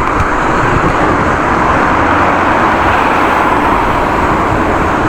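Strong wind rushing steadily over the microphone of a moving bicycle.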